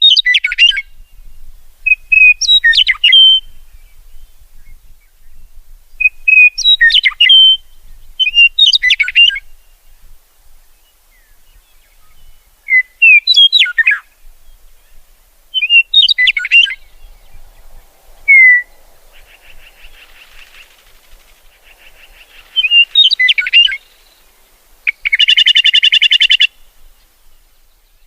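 A songbird singing short, loud phrases of quick whistled notes, repeated every two to three seconds. Near the end comes a harsh, buzzy trill of about a second and a half.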